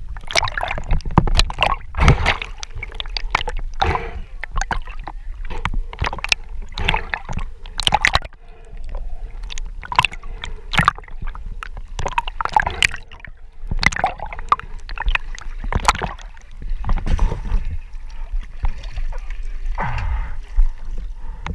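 Water splashing and gurgling in an irregular run of sharp splashes over a low rumble, the sound of a swimmer moving through the water at the surface.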